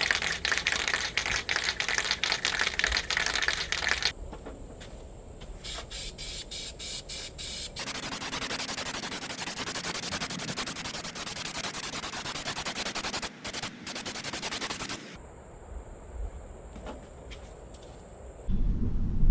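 Aerosol spray-paint can: rapid rattling clicks for about four seconds as the can is shaken, then, about eight seconds in, a steady spraying hiss lasting some seven seconds.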